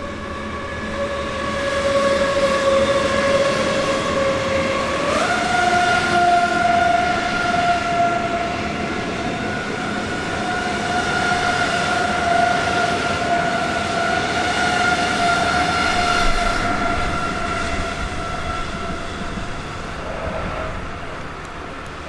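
Train passing with a steady high whine that steps up in pitch about five seconds in and fades near the end, over the rumble of the train.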